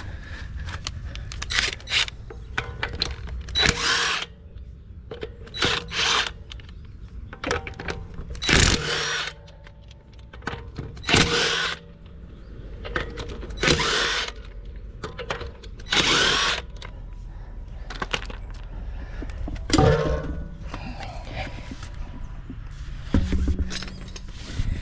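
Cordless impact wrench on a car wheel's lug nuts, run in about nine short bursts of under a second each.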